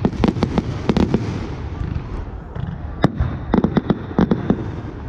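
Display fireworks going off: quick volleys of sharp bangs and cracks, a cluster in the first second, a single loud bang about three seconds in, then another rapid cluster, all over a steady low rumble.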